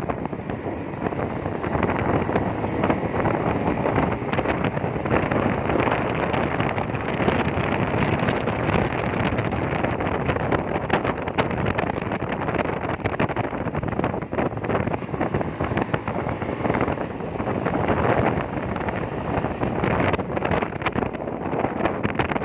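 Wind buffeting the microphone on a moving bike, a steady rushing noise with constant flutter.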